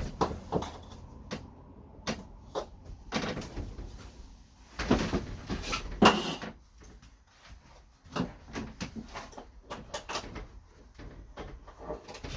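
A hinged caravan storage lid being lifted and handled: a string of knocks, clunks and rattles, loudest about five and six seconds in.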